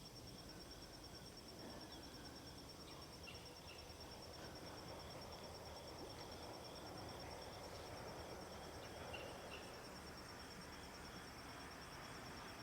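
Faint outdoor ambience with a continuous high-pitched, evenly pulsing insect trill and a few faint short chirps.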